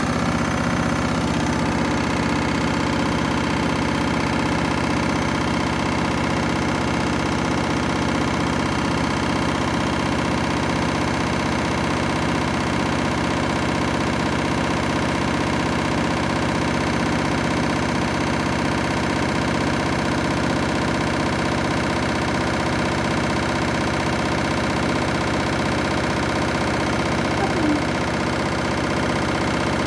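Candy washing machine spinning at high speed on a 1600 rpm spin: a steady motor whine and drum hum, with the machine vibrating hard enough to shake the floor.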